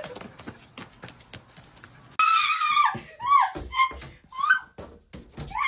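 A run of short, high-pitched cries that rise and fall, starting about two seconds in after a quieter stretch with a few faint clicks.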